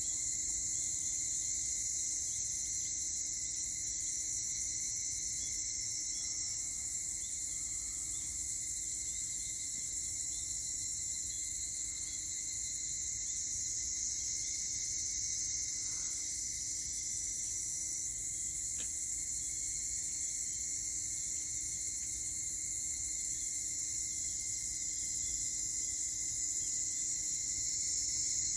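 A steady, high-pitched chorus of summer insects that keeps going without a break.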